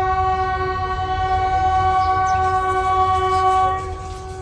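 Train horn sounding one long steady blast that cuts off near the end, over a low steady rumble.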